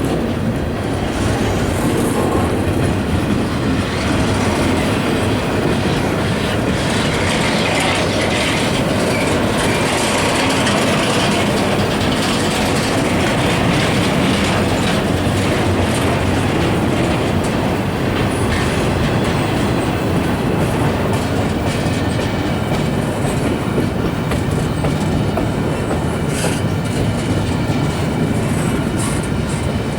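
Norfolk Southern freight train rolling past, its wheels clattering steadily over the rail joints, with faint wheel squeal in the second half.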